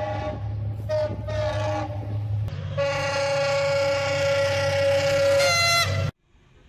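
Diesel locomotive horn sounding a few short blasts and then one long blast, over the low running of the locomotive's engine. The pitch shifts near the end and the sound cuts off abruptly.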